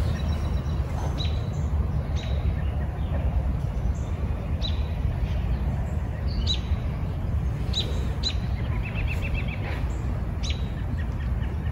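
Songbirds chirping: short, sharp high notes at irregular gaps, with a quick trill about nine seconds in. Under them runs a steady low rumble.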